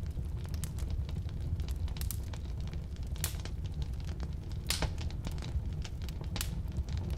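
Firewood burning in a fireplace or wood stove: a steady low rumble of flame with irregular crackles and pops, two of them sharper about three and four and a half seconds in.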